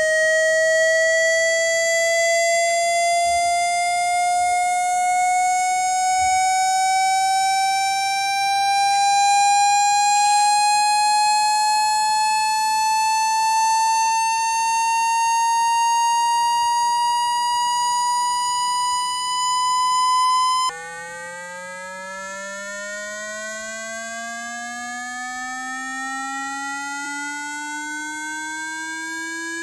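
Electronic tone for ejecting water from a phone speaker, slowly rising in pitch with a buzzy edge. About 21 seconds in it cuts off suddenly and a quieter, much lower tone begins, rising again.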